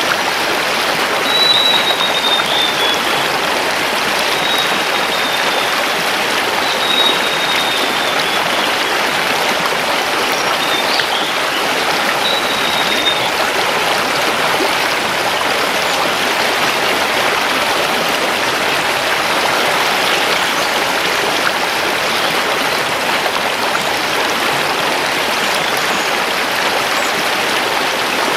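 Mountain river rushing over stones, a steady even flow. A forest bird adds four short, high, slightly falling notes in the first half.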